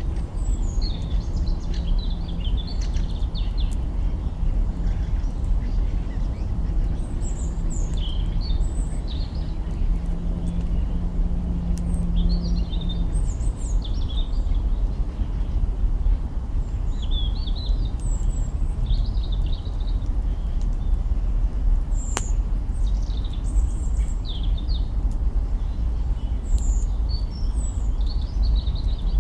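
Birds chirping in short, scattered calls over a steady low rumble, with a few sharp crackles from a burning campfire.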